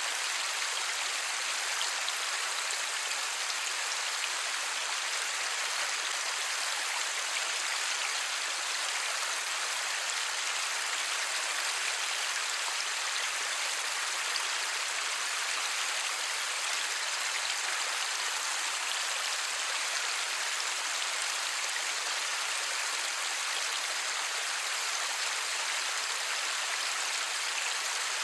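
Steady light rain, a dense even patter of drops with no thunder, unchanging throughout.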